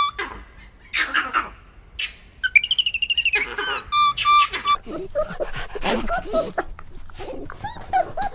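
Animal calls: a few high, whistle-like calls that glide down in pitch, then a fast run of short, sharp calls.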